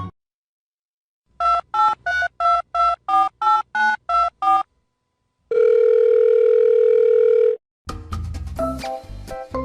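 Telephone keypad tones as a number is dialled: about ten short two-tone beeps in a quick, even row. They are followed by one steady tone lasting about two seconds, then music starts near the end.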